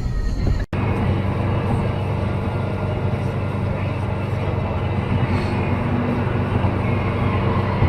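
Steady vehicle engine and road noise, a continuous low hum, broken by a brief dropout under a second in.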